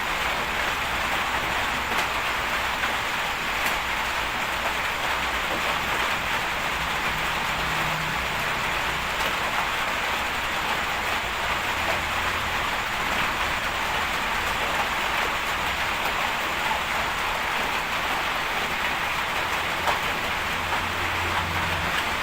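Steady hiss of rain falling on surfaces, with a low rumble underneath and a few faint ticks.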